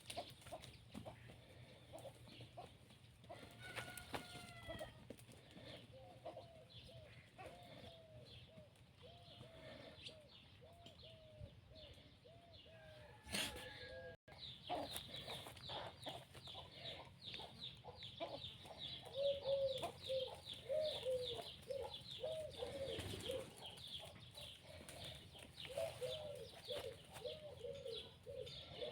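Chickens clucking, many short repeated clucks, with a dense run of high chirping joining in from about halfway through.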